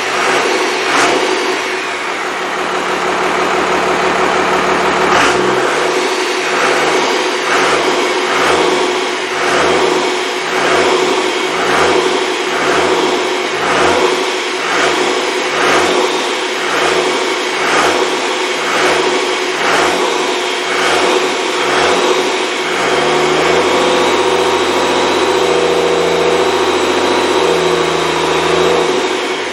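Freshly rebuilt Cummins 5.9L 12-valve diesel engine running loudly. A regular pulsing beat, a little faster than once a second, runs through most of it and then settles to a steadier run near the end.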